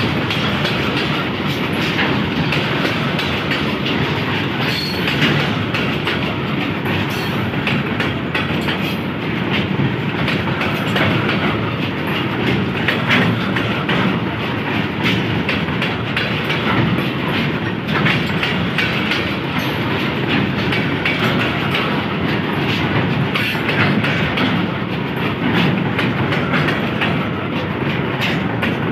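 Hopper wagons of a coal freight train rolling past close by: steady wheel-on-rail noise with a continual irregular clatter of clicks from the wheels and running gear.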